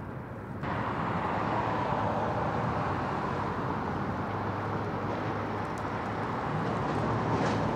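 Steady vehicle and road noise with a low hum, starting abruptly about half a second in.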